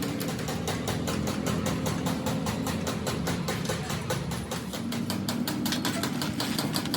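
An engine running steadily with a rapid, even ticking over a low hum.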